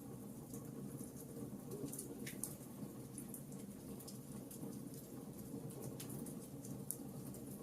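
Wood fire in a fireplace crackling: irregular sharp pops and clicks over a steady low rush of the flames, with two louder pops, about two and a half seconds in and near the end.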